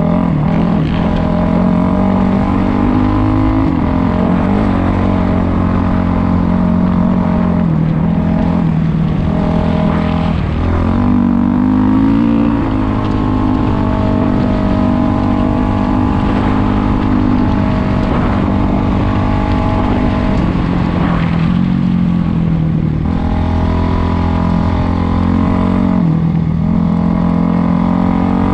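Dirt bike engine running while riding, its pitch rising and falling every few seconds with throttle and gear changes, over a steady low rumble.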